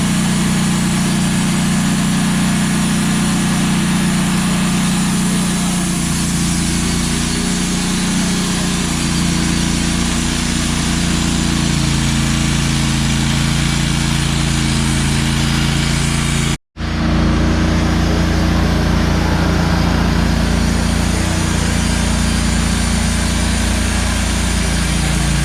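Wood-Mizer portable band sawmill running steadily, its motor tone dropping a little in pitch partway through as it takes load. The sound cuts out for an instant about two-thirds of the way through, then carries on the same.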